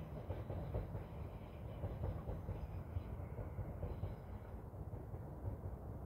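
A train running along the rails with a low, uneven rumble and clatter; its higher sounds die away from about halfway through.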